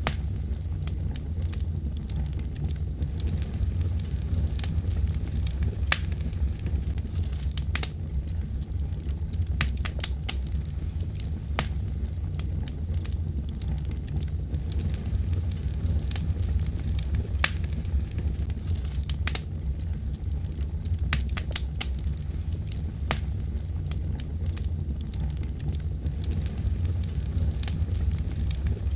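Fire crackling: a steady low rumble of the flames with irregular sharp pops and snaps scattered throughout, several of them louder than the rest.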